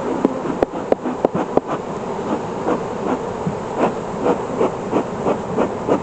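A beekeeper's bellows smoker being pumped in short hissing puffs, about three a second, to drive the bees down before the hive is closed. A few sharp knocks come in the first second or so.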